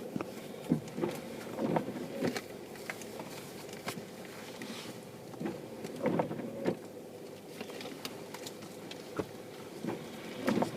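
Car cabin noise in slow traffic: a steady low hum from the running vehicle, with scattered light clicks and knocks at irregular intervals.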